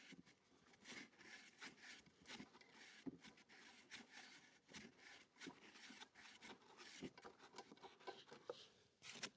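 Near silence: faint scattered clicks and rustles of handling, over room tone.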